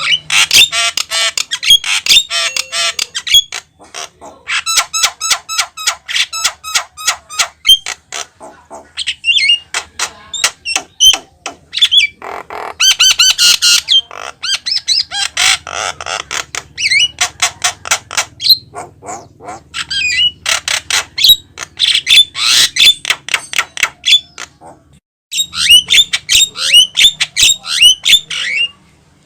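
Javan myna singing in full voice: long bursts of fast, harsh chattering and squawking notes, with brief pauses between phrases.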